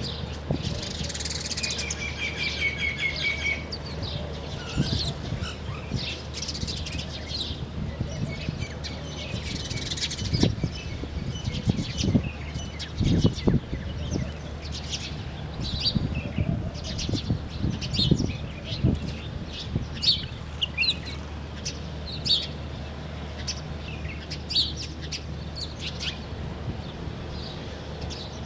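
Several birds chirping and calling in short, high notes, with a fast trill about two seconds in. Low thuds, the loudest sounds, come between about ten and nineteen seconds in, over a steady low hum.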